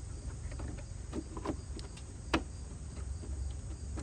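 A few light clicks and taps of a new filter and its housing being fitted by hand, one sharper click about two and a half seconds in, over a steady high insect buzz and a low rumble.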